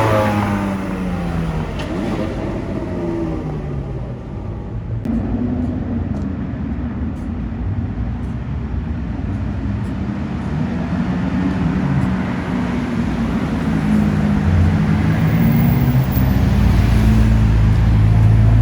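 Cars in traffic. A car's engine note falls in pitch as it goes past at the start, there is road and tyre noise in the middle, and another engine grows louder toward the end.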